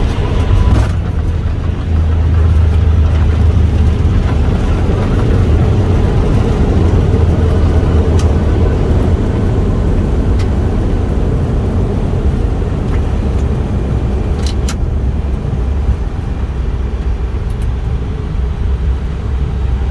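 Airbus A320 heard from the cockpit on its landing rollout: a loud, deep, steady rumble as the airliner decelerates down the runway. The rumble eases off gradually in the second half as it slows, with a couple of short clicks about three-quarters of the way through.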